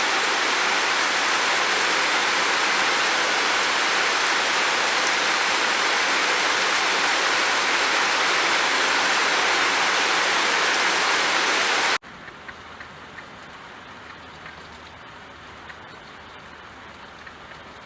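Heavy, steady rain. About twelve seconds in it cuts abruptly to much quieter rain with scattered individual drops.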